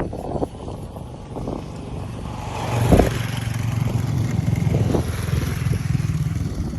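A motor vehicle passing close by on the road: its engine drone builds to its loudest about three seconds in, with a short knock there, runs on steadily, then drops away near the end.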